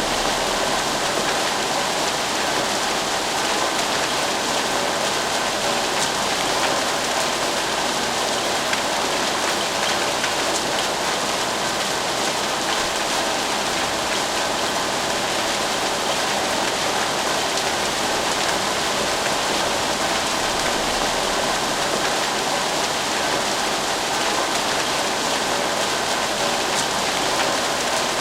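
Steady rain falling: an even, unbroken hiss of drops, with no thunder or other sounds standing out.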